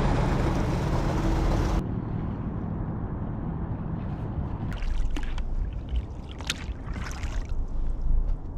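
Wind rumbling on the microphone over open water, louder for the first couple of seconds. In the second half come several light water splashes and drips from a kayak paddle.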